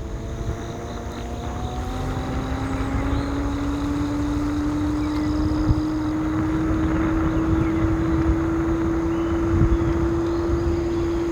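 Electric scooter's hub motor whining as it picks up speed, the pitch rising slowly and then levelling off, over steady wind and tyre noise.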